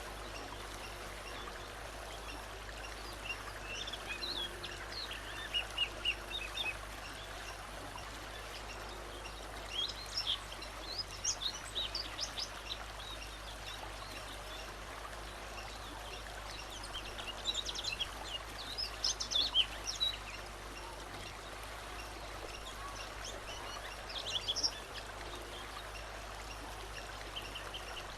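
A songbird singing in four phrases of quick, high chirps a few seconds apart, over the steady rush of running water.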